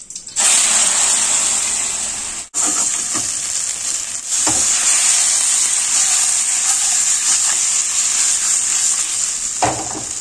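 Shark meat coated in chili paste frying in hot oil in a pan, a loud steady sizzle. A couple of short knocks come through as the pieces are stirred.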